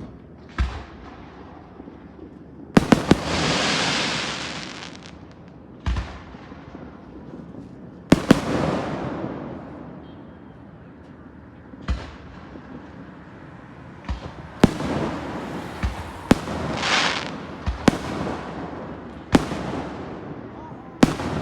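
Aerial fireworks going off: about a dozen sharp booms spaced a second or two apart, several followed by a few seconds of hissing crackle from the bursting shells.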